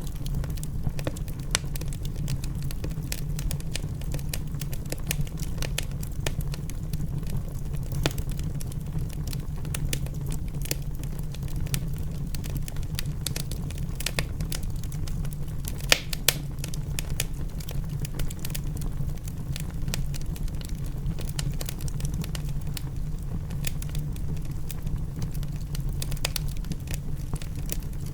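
Wood fire crackling in a fireplace, with frequent small pops and two louder pops about halfway through, over a steady low rumble.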